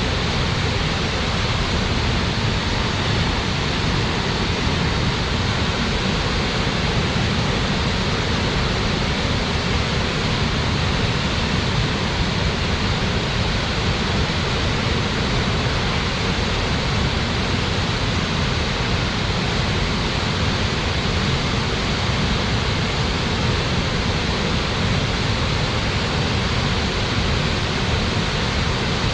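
Waterfall crashing into its plunge pool: a loud, steady rush of falling water that does not change.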